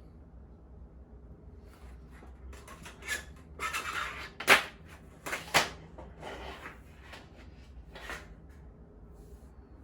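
A string of irregular knocks, clacks and rustles from objects being handled and set down, loudest about halfway through.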